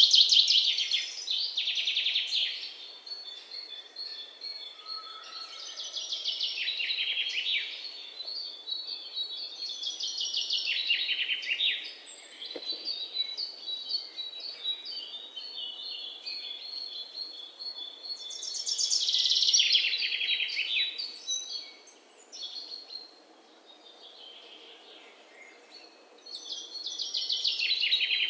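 Songbirds singing: one bird repeats a loud, fast trill that falls in pitch, about six times over the span, while a thin string of rapid high chirps runs between its phrases. The trills come closer together near the start and spread out later, with the quietest stretch a little after the middle.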